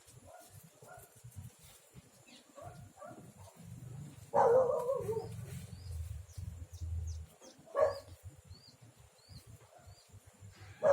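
A pet animal calling a few times: a long call falling in pitch about four seconds in, a short one near eight seconds and another at the end. Faint short high chirps repeat between the calls.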